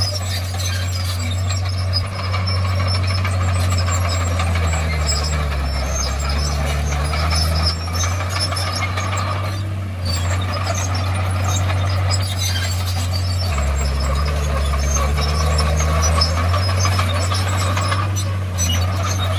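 Crawler bulldozer's diesel engine running under load, its low note dropping and wavering twice as the load comes on, with a steady higher mechanical rattle and whine over it.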